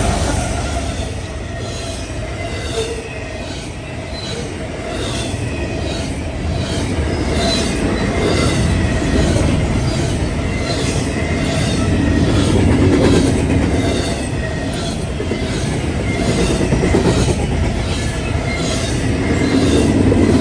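Train rolling past, its wheels clacking over rail joints in a steady rhythm of a little more than one clack a second.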